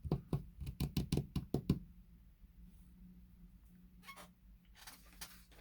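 A quick run of about a dozen light knocks in under two seconds, then two short rustles near the end.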